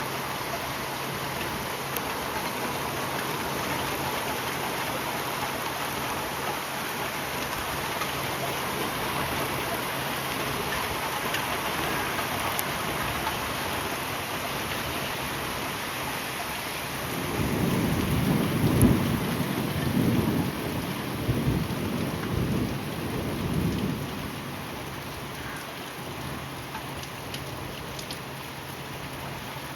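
Steady heavy rain falling, an even hiss. A long low roll of thunder rumbles through the middle, from about 17 to 24 seconds in.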